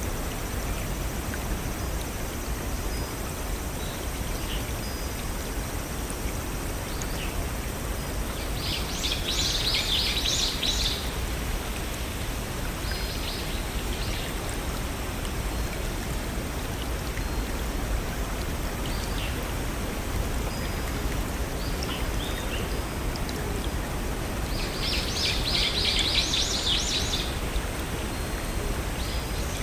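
Steady rush of a small stream and waterfalls, with a songbird singing a rapid trill of about two seconds, twice, some fifteen seconds apart, and scattered faint chirps.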